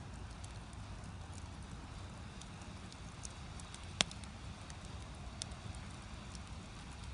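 Firewood burning in a traditional Korean agungi (fire-stoking hole) under a cast-iron cauldron: scattered sharp crackles over a low steady rumble, with one loud pop about four seconds in.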